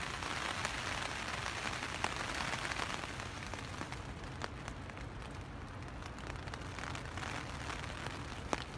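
Steady heavy rain, heard from inside a tent, with many individual drops ticking sharply close by.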